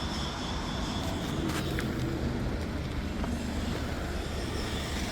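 Steady low mechanical rumble with a few faint clicks and knocks.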